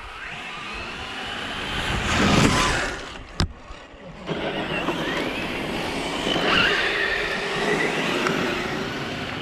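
Radio-controlled scale trucks driving over dirt: electric motors whining up and down with throttle over the scrabble of tyres, swelling about two seconds in. There is a sharp click a little later, a brief drop in sound, and then the driving picks up again.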